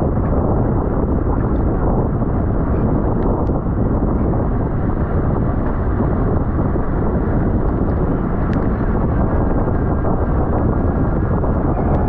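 Steady, loud wind noise on the microphone of a camera carried on a bicycle racing at speed.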